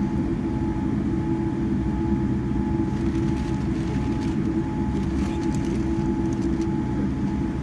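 Airliner taxiing on the ground: a steady jet-engine rumble with a constant low hum and a thin, higher steady whine, with a few faint light rattles.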